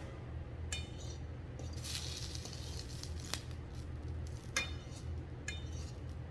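A few light clinks of tableware ringing briefly over a steady low hum, with a short hiss about two seconds in.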